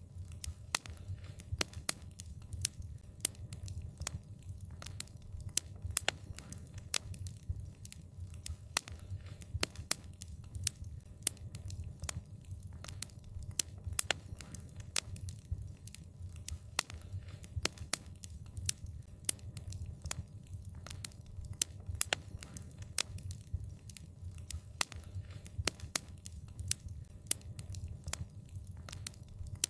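Wood fire crackling, with frequent sharp, irregular pops over a steady low rumble of the flames.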